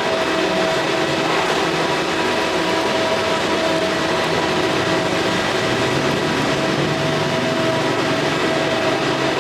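Steady machine drone: a constant hiss with a few held tones over it, unchanging throughout.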